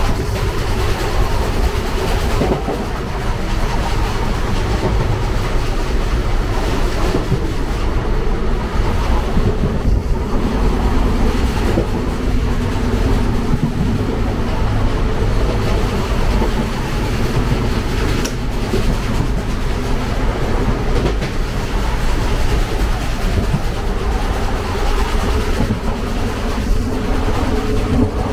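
Indian Railways sleeper coach running on the track, heard from inside its vestibule: a loud, steady rumble of the wheels on the rails, with faint clicks and rattles.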